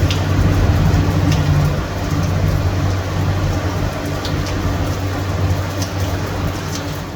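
Steady heavy rain hissing down, with a few sharp drip ticks scattered through it. A low hum sits underneath, strongest in the first two seconds and fading after.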